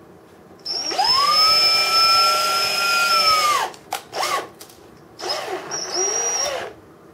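Small electric drill drilling out a rivet in a diecast model crane. It spins up to a steady whine for about three seconds and falls in pitch as it stops, then gives a brief blip and a second, shorter run.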